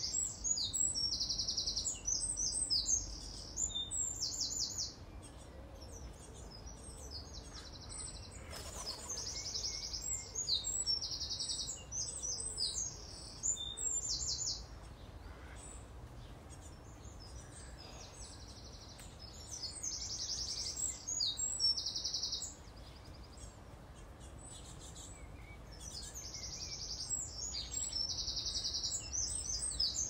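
A songbird singing high, rapid trilling phrases in bouts of several seconds, with pauses between them, over steady low background noise.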